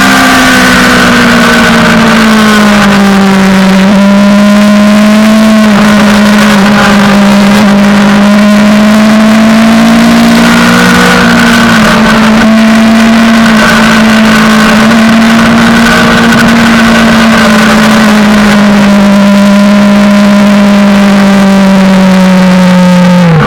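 Suzuki GSX-R600 inline-four engine held at high revs, its pitch slowly easing down and climbing again, over heavy rushing noise. Near the end the revs drop sharply for a moment and pick straight back up.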